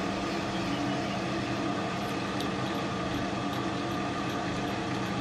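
Metal lathe running steadily, its motor and gearing giving an even hum with several steady tones.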